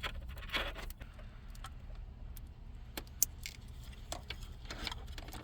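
Wiring harness plugs and cables being handled, giving small plastic clicks and rattles, with a sharp click at the start and another about three seconds in.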